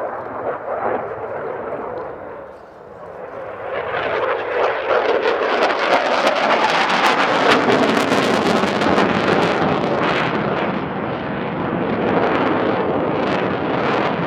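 Saab JAS 39 Gripen C fighter's Volvo RM12 jet engine, heard as loud jet noise from the aircraft in flight. It swells about three seconds in and stays loud, with a crackle through it.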